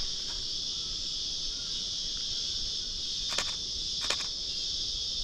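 Steady high-pitched chorus of insects buzzing in the bush. Twice, about three and a half and four seconds in, a camera shutter clicks.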